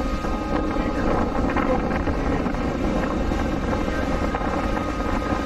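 Boat engine running steadily while the boat is under way, with wind on the microphone.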